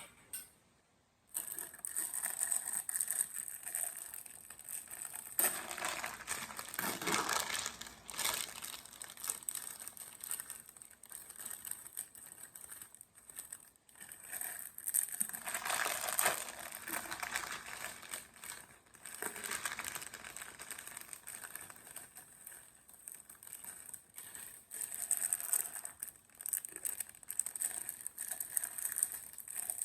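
Irregular crinkling and rustling noise that comes and goes in level, starting about a second in.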